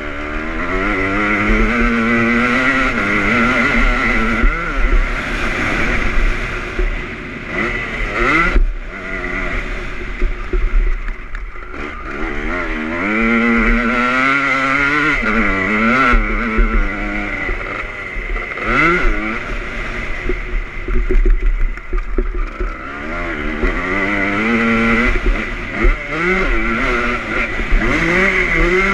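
2001 Honda CR250 two-stroke motocross bike's engine, revving up and dropping back over and over as it is ridden around the track.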